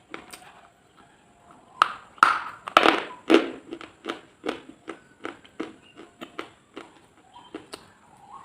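Close-miked crunching: a few loud crunches about two seconds in, then a steady run of softer crunches at about three a second.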